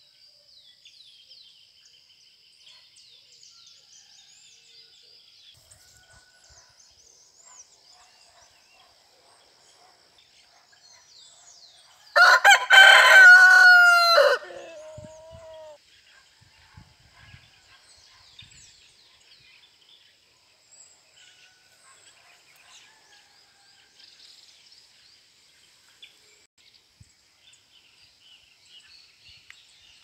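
A single loud bird call about twelve seconds in, lasting a couple of seconds, with a few quick repeated notes and a falling end. Under it run a faint steady high insect drone and scattered faint small-bird chirps.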